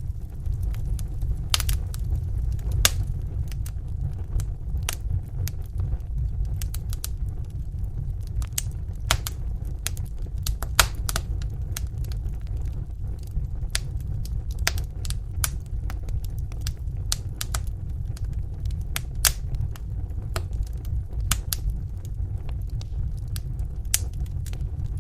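Fire in a fireplace crackling, with sharp irregular pops every fraction of a second to a second over a steady low rumble of the flames.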